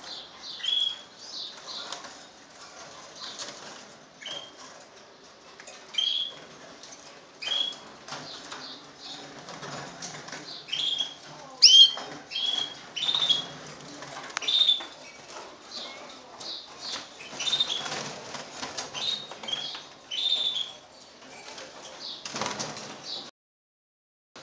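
Birds chirping in short, repeated calls, with wings fluttering and rustling among them. The sound cuts out for about a second near the end.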